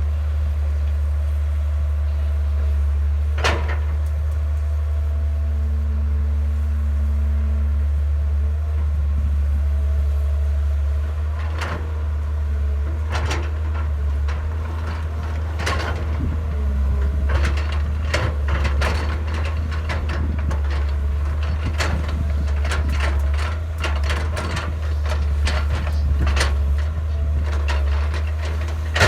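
Excavator's diesel engine running with a steady low drone while it digs soil, with sharp knocks and clanks that start about a third of the way in and come thick and fast in the second half.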